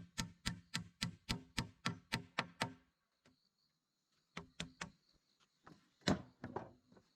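Rapid, even knocking strikes, about three a second, that stop a little before the middle. A short group of three knocks follows, then a single louder knock.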